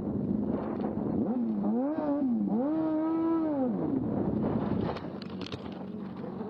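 Motorcycle riding with steady road and wind noise. About a second in, an engine revs up and down, then holds a higher rev for about a second before dropping back.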